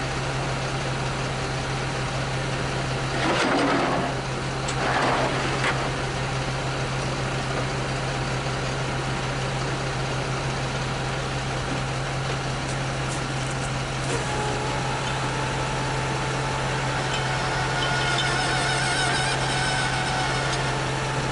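Engine idling with a steady low hum, with two short rushing noises about three and a half and five seconds in, and faint wavering higher tones near the end.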